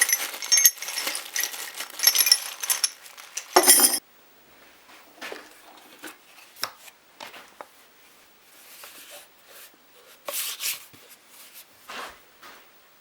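Small metal objects clinking and rattling as they are handled. The clatter is dense for about four seconds, stops suddenly, and is followed by scattered separate clicks and knocks.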